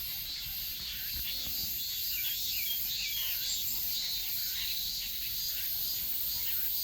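Steady high-pitched insect buzzing, with short bird chirps over it a couple of seconds in.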